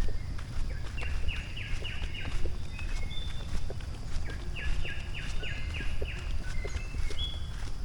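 A jungle bird calling in two quick runs of four or five short falling notes, with brief higher whistles from other birds, over a steady low rumble and the light taps of footsteps on stone.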